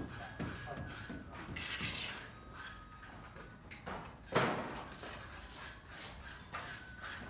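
Irregular knocks, clicks and scrapes of hand building work, with one sharper, louder knock about four seconds in.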